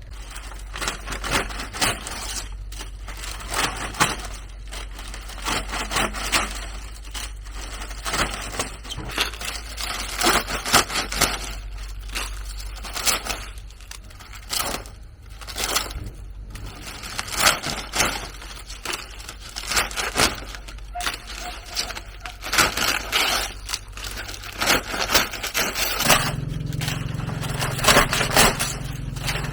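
Irregular scraping and crackling of wood being worked by hand, many sharp strokes at uneven spacing. Near the end a low steady hum joins in.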